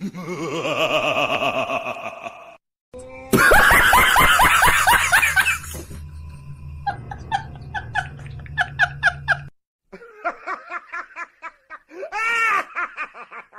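A string of comic sound-effect clips cut together over music: bursts of laughter and shrieking cries, each clip starting and stopping abruptly.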